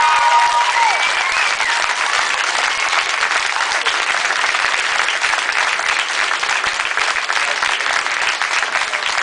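Audience applauding, with a few shouts and whoops in the first second or two.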